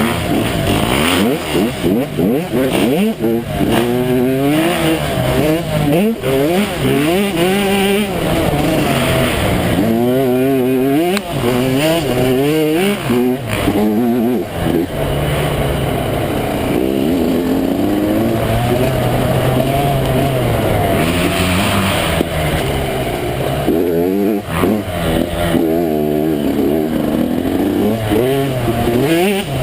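Motocross dirt bike engines riding a track, their pitch climbing and dropping again and again as the riders open the throttle, shift and back off.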